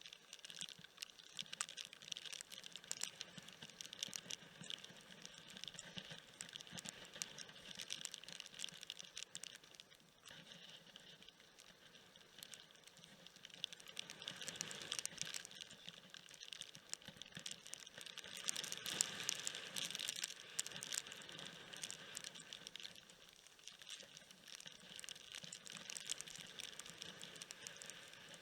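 Rain pattering as a fine, dense crackle, steady with louder stretches about fifteen and nineteen seconds in.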